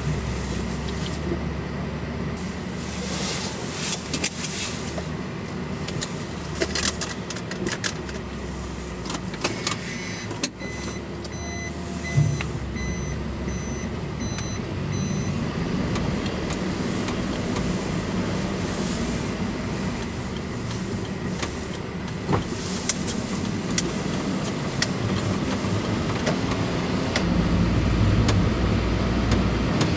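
Motor vehicle running, a steady low rumble and road noise with scattered clicks and rattles.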